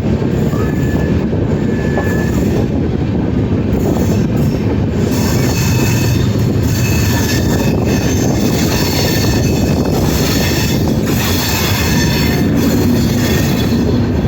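Passenger train running on the rails with a steady low rumble; high wheel squeal comes in from about five seconds in and carries on.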